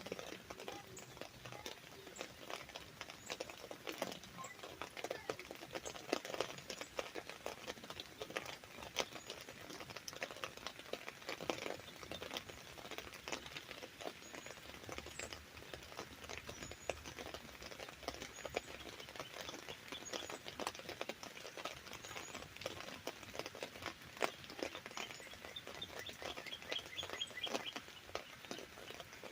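Raindrops pattering irregularly and densely on an umbrella. A bird chirps faintly now and then, with a quick run of short notes near the end.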